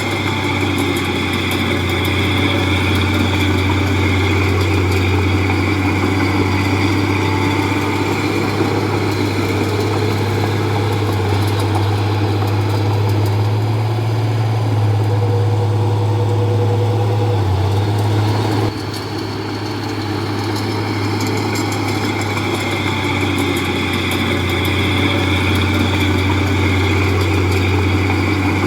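Heavy diesel engine of earthmoving machinery running steadily with a deep drone. About two-thirds of the way through the sound drops suddenly, then builds back up.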